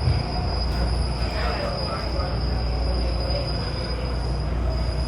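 MARTA rapid-transit railcar running along the track, heard from inside the car: a steady rumble of wheels on rail with a faint steady high tone over it.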